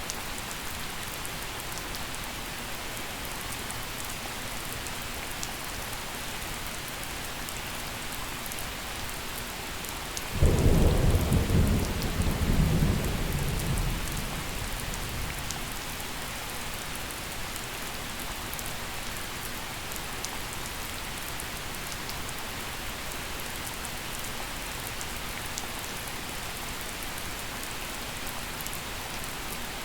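Steady gentle rain falling, with one clap of thunder about a third of the way in: it starts suddenly, rolls for a few seconds, and fades back under the rain.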